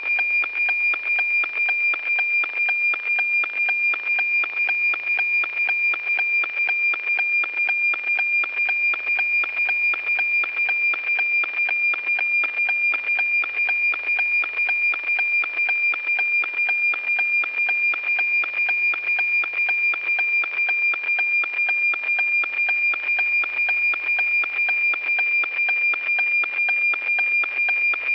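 NOAA-18 weather satellite APT signal received by radio: a steady high tone with a rhythmic tick-tock beat, about two beats a second, one for each scan line of the cloud image.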